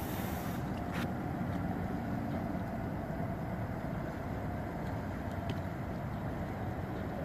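A steady engine running, with a faint constant hum over a low rumble and a single sharp click about a second in.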